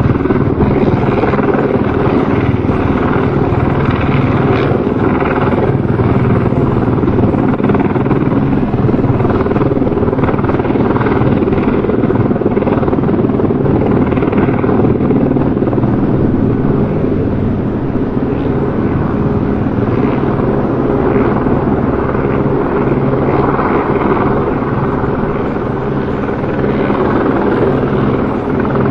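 Helicopter running steadily, its rotor and engine a continuous loud drone with a faint regular beat from the blades.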